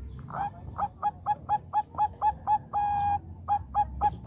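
Zebra dove of the Bangkok song type (perkutut bangkok) singing: a quick run of short, clipped cooing notes, about four a second, broken by one longer held note in the middle before the run picks up again.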